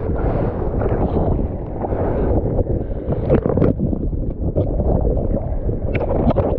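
Strong wind, about 30 knots, buffeting the microphone, with water sloshing and splashing around it and occasional sharp splashes.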